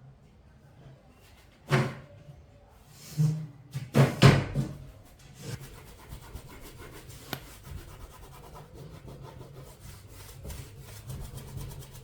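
A few sharp knocks, then a fast, even run of rubbing strokes on a hard surface.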